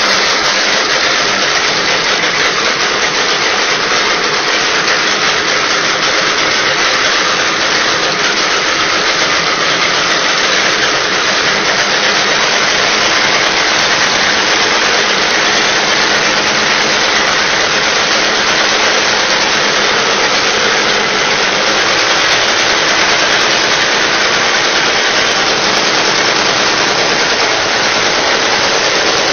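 Two-stroke aircraft engine running steadily and loudly, with no change in speed.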